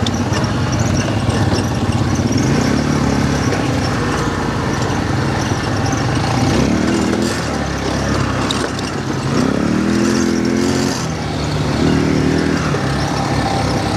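Quad bike (ATV) engine running under way, its note rising and falling several times as the throttle is worked over rough ground.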